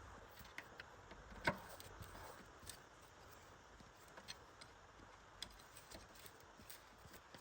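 Near silence with faint scattered light clicks and ticks, and one sharper click about a second and a half in.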